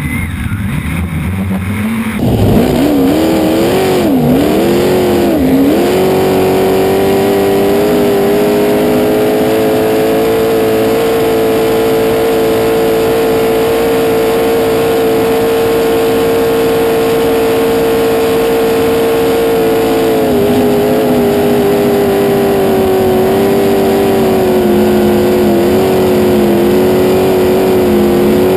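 Fuel-injected V8 race boat engine running on E85, revving up and down a few times and then held at a steady high pitch, easing off slightly about twenty seconds in.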